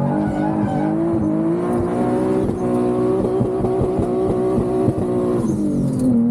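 Twin-turbo Infiniti G37's V6 revving hard: the engine note climbs in the first half-second and holds at high revs for about five seconds, with a run of sharp pops in the middle. It then drops back in pitch near the end.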